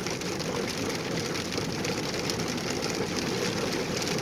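Steady road noise inside a moving truck's cabin: the engine's low hum and the tyres hissing on a wet, puddled road.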